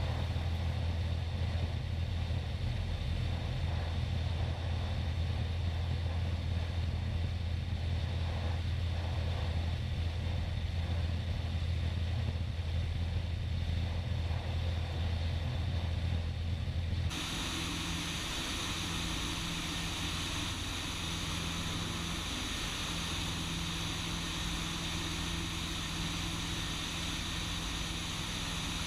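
Cessna 150's Continental O-200 four-cylinder engine and propeller droning steadily in the cabin during the climb after takeoff. About seventeen seconds in, the sound changes abruptly to a thinner, hissier drone.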